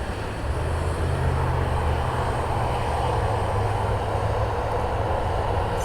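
Jet airliner engines running close by, a steady rushing noise over a deep low rumble that grows louder about half a second in and holds.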